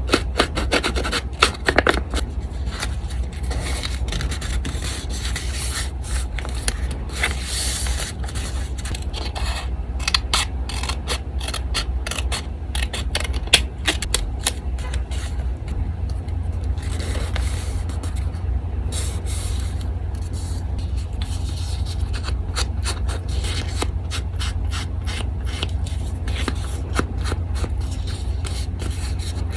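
Sheets of coffee-dyed paper being handled, rubbed and scraped against each other and the desk, with many small irregular clicks and taps.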